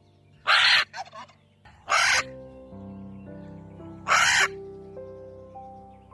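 A bird giving three loud, harsh calls, each under half a second and about a second and a half to two seconds apart, over soft background music with sustained notes.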